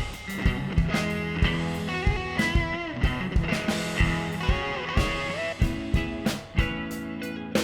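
Electric guitar played through a Dr. Z Maz 18 NR 2x10 combo amp: picked single-note lines with string bends in the middle, over a steady beat of sharp hits.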